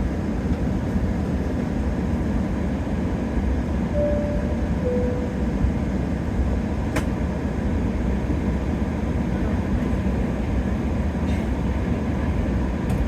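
Steady low rumble of cabin noise aboard a Boeing 777-300ER on the ground before takeoff. A two-note cabin chime, high then low, sounds about four seconds in, and a sharp click comes about seven seconds in.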